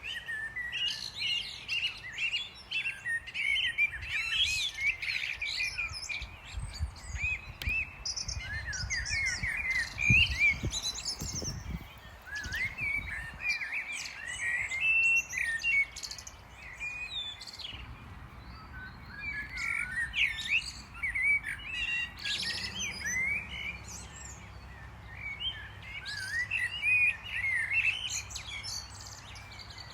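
Small birds chirping and twittering continuously in many short, quick calls, with a low rumble for a few seconds in the middle.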